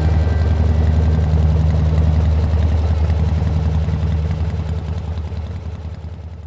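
Motorcycle engine running at a steady idle, with a low even drone that fades out near the end.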